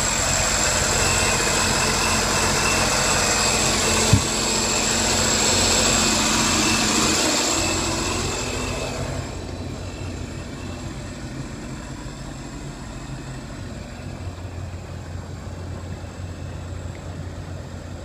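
Scarab 195 jet boat's engine running, with a high whine over a steady rumble; about halfway through it drops to a quieter, lower running sound. A single sharp click about four seconds in.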